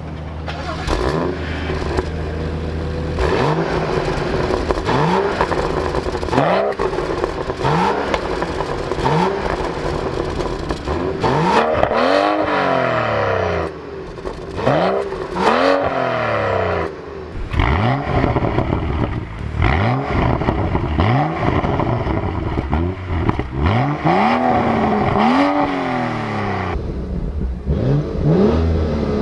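BMW 640i's turbocharged 3.0-litre straight-six revved again and again from idle through its exhaust. Each throttle blip sends the pitch quickly up and back down, with some longer, higher revs after the middle.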